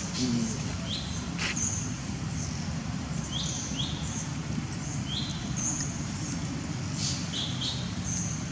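Small birds chirping, short separate chirps every second or so, some sweeping up in pitch, over a steady low rumble.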